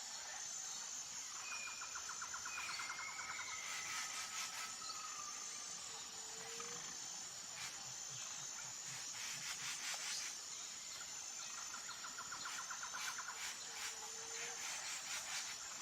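Faint jungle ambience: a steady high insect drone with scattered bird calls, including gliding whistles and two runs of rapid trills, one early and one near the end.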